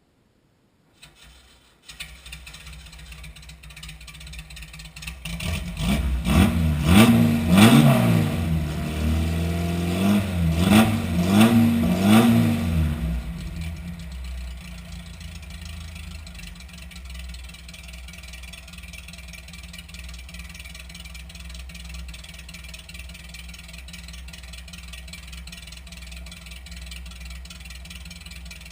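1961 Porsche 356 1600 Super's air-cooled flat-four through a Sebring sport exhaust, catching about two seconds in and idling. From about five to thirteen seconds in it is revved in several quick blips, the pitch rising and falling, then it drops back to a steady idle.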